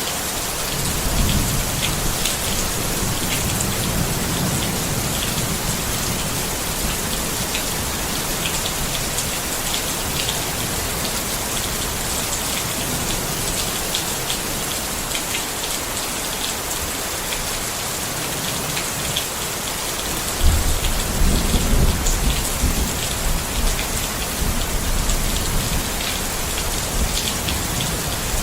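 Steady rain falling on a tent, with scattered individual raindrop ticks. Low thunder rumbles about a second in, and again more loudly with a sudden crack around twenty seconds in, fading over several seconds.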